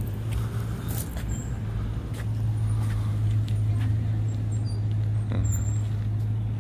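Steady low drone of a running motor vehicle engine, growing a little louder about two seconds in, with a few light clicks.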